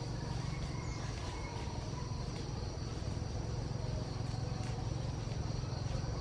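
Steady, continuous insect chorus, with a steady low rumble underneath.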